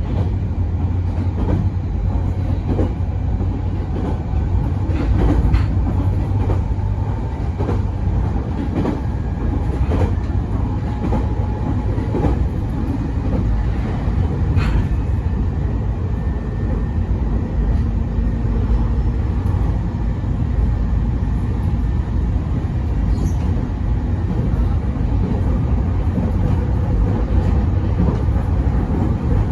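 Mito Line electric train running at speed, heard from inside the carriage: a steady low rumble of wheels on rail, with scattered clicks as the wheels pass rail joints.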